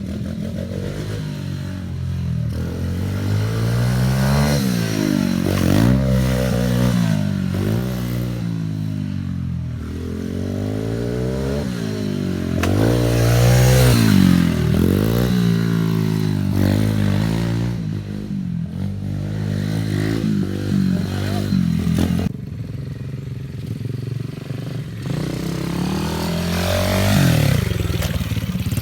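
Pit bike engine revving hard and easing off again and again as it is ridden round a dirt track, its pitch climbing and falling every second or two.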